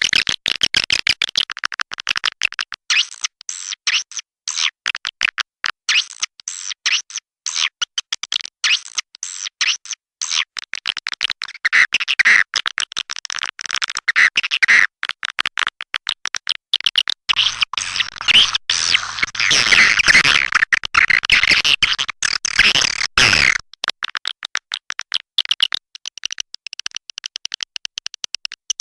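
Swiftlet calling sound: a recording of swiftlets twittering in rapid, densely packed high chirps, played to lure swiftlets to a nesting house. A busier, fuller stretch of calls comes a little past the middle.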